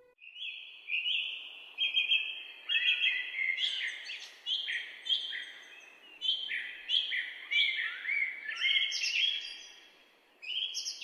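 Several birds chirping, many short calls overlapping one another in a busy chorus, with a brief lull near the end.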